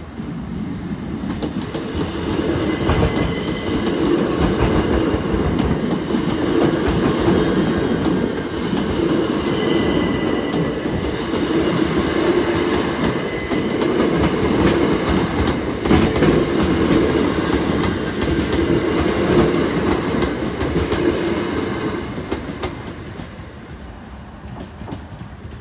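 Southern Class 377 electric multiple unit passing close by, its wheels clattering over the rail joints and crossing, with a faint high whine above the clatter. It grows louder over the first few seconds and fades as the train pulls away near the end.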